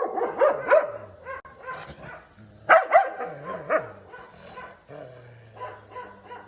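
Dogs barking and yelping in a confrontation: a run of short, sharp barks, loudest in a burst a little under three seconds in.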